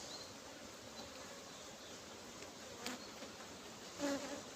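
Honeybees buzzing around an open hive during a brood frame inspection, a steady faint hum. About four seconds in, a single bee buzzes briefly louder, close by, and there is one faint click just before it.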